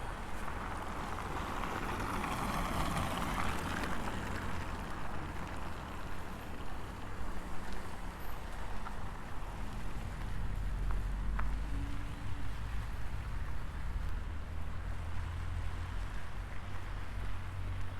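Steady low rumble of city traffic, with a vehicle passing during the first few seconds and fading away.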